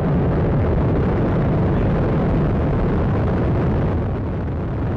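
Atlas V 401 rocket's RD-180 first-stage engine during ascent, a loud, steady, deep noise without pauses, dipping slightly about four seconds in.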